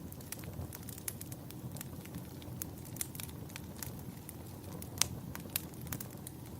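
Campfire burning with a steady low rumble and irregular sharp crackles and pops from the burning wood, the loudest pop about five seconds in.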